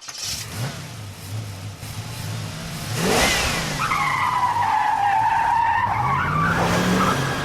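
A car engine revs, then its tyres squeal for about three seconds, as in a burnout or skid.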